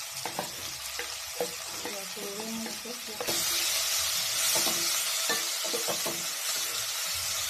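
Chopped tomatoes, peppers and parsley sizzling in hot oil in a metal pot, stirred with a wooden spoon. Early on, the spoon taps and scrapes, and a little over three seconds in the sizzle gets louder as the spoon stirs through the vegetables.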